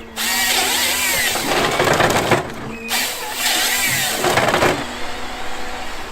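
Forestry harvester at work: two loud bursts of grinding, whining noise from the harvester head, each about two seconds long with a short break between them, over the machine's steady engine hum.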